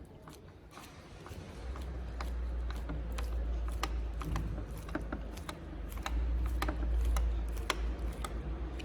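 Scattered light clicks and taps of small metal parts and tools being handled, over a low rumble that starts about a second and a half in.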